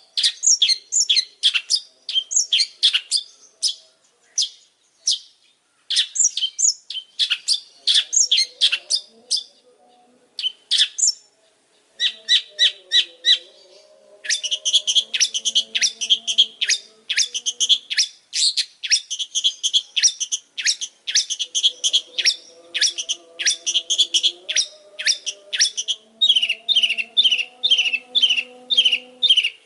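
Long-tailed shrike (pentet) singing a fast, loud chatter of sharp, scratchy notes in long runs with short breaks. Near the end it settles into a steady series of about four down-slurred notes a second.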